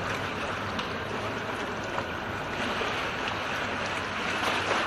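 Steady rushing of floodwater, with a faint low hum underneath.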